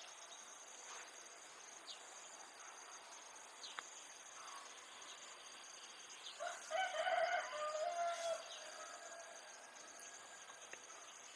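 A rooster crowing once, about two seconds long, past the middle, over a steady high chirring of insects.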